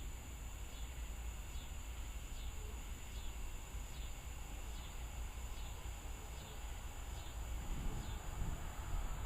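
Evening insects chirping in a slow, even rhythm of about one chirp every 0.8 seconds, over a steady high insect drone and a low steady rumble.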